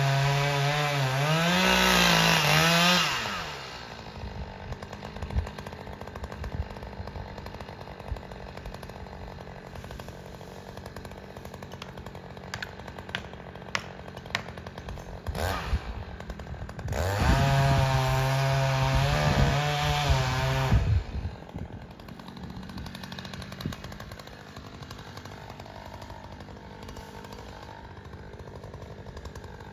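Chainsaw running at full throttle, rising in pitch briefly, then dropping away. It comes back at full throttle for about four seconds in the middle, then falls quiet again.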